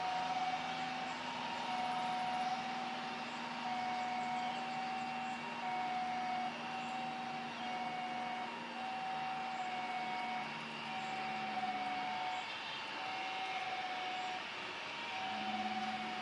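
Steady engine and traffic noise with a low hum, over which a beeping tone repeats on and off about once a second.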